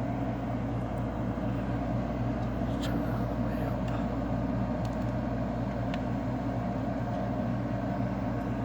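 LG window air conditioner running, a steady hum of compressor and fan, with a few faint clicks.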